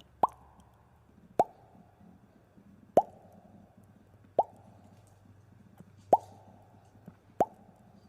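Cartoon water-drop "plop" sound effect: a short bloop that glides quickly upward in pitch, repeated six times at irregular gaps of about one to one and a half seconds.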